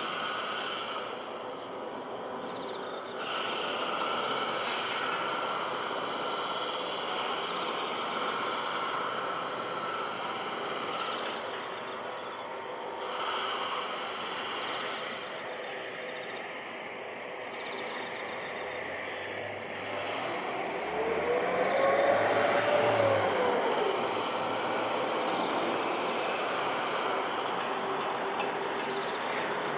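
Jet engines of a Boeing KC-767 tanker on approach, a steady distant roar that swells to its loudest about three-quarters of the way through.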